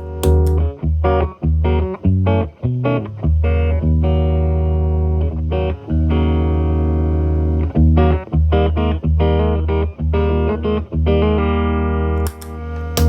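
Electric guitar, a Telecaster with single-coil Alnico pickups, played through an MI Audio Crunch Box distortion pedal at minimum gain into a Marshall Valvestate amp's clean channel. The playing mixes short picked notes with notes held for a second or two.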